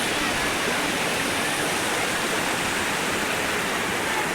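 Waterfall: a steady rush of falling water with no let-up.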